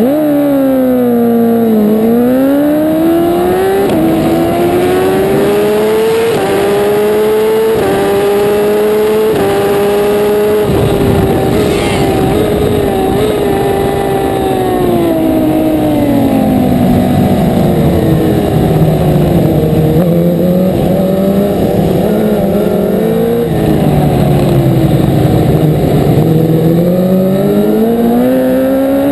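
1000 cc racing superbike engine at full race pace, its pitch climbing and dropping back at each upshift through several gears, then falling as the bike slows, and climbing again near the end.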